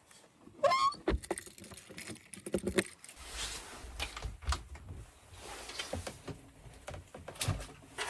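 Irregular clinks, knocks and rustling of objects being handled, with a short wavering squeak about half a second in.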